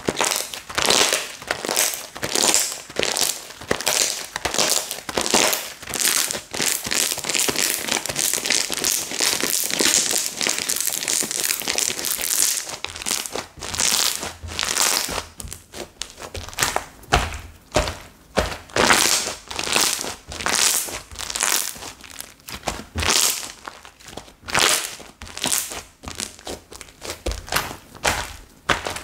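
Slime being pressed and kneaded by hand, making repeated crunchy, crackling squishes a few times a second. It blends into a steadier crackle about a third of the way in, then breaks back into separate presses.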